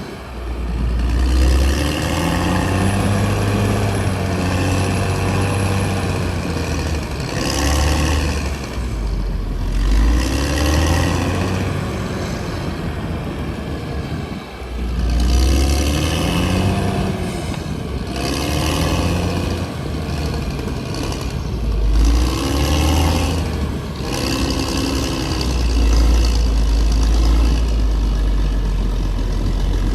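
CAT D6R XL bulldozer's diesel engine working hard over a deep low rumble. Its pitch rises and falls again and again, every few seconds.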